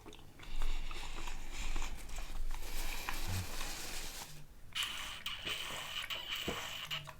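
Close-miked mouth sounds of someone eating and drinking: a steady wet noise that pauses briefly about four and a half seconds in, then goes on.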